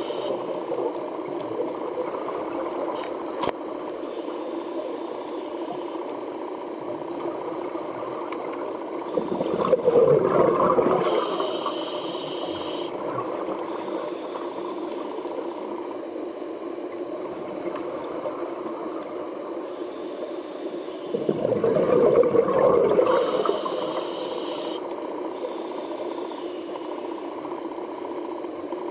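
Scuba diver breathing through a regulator underwater: a steady drone with two louder rushes of exhaled bubbles, each with a hiss of drawn air, about ten and twenty-two seconds in.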